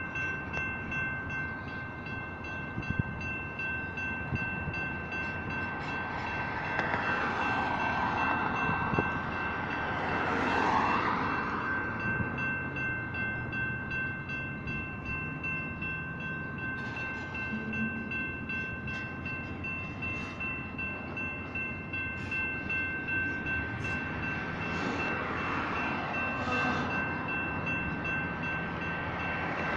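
Double-stack intermodal freight train rolling through a grade crossing, its wheels rumbling and clattering on the rails, with the rail noise swelling twice. The crossing signals' electronic bells ring steadily throughout.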